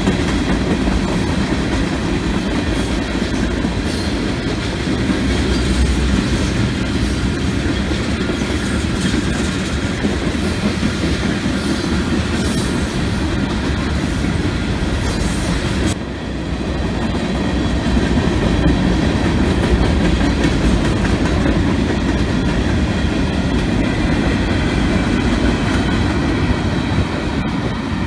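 Freight train of tank cars and covered hoppers rolling past, a steady noise of steel wheels on rail with some clacking over the joints. There is a brief drop in level about halfway through.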